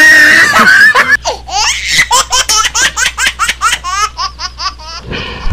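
A loud harsh burst, then a quick string of laughs, about four "ha" pulses a second, most likely a laughter sound effect dubbed over the footage.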